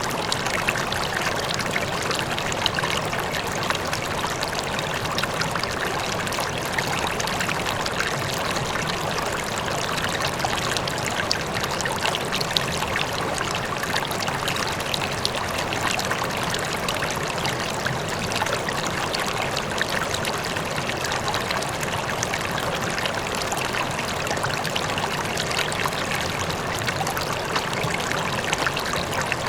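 River water flowing over rocks: a steady rush with fine splashing and trickling, a waterfall blended in the background.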